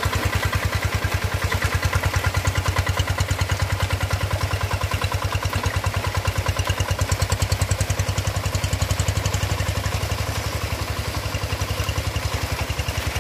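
Paddy-field tractor engine running steadily, with an even, rapid firing beat.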